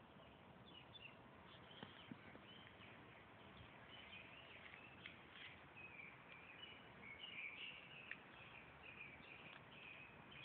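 Faint bird chirps over a low background hiss, the chirping growing busier about halfway through.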